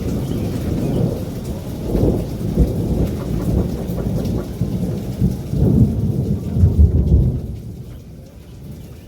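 Thunder rolling over steady rain, the rumble swelling about two seconds in and again more strongly from about five to seven seconds in, then dying away near the end.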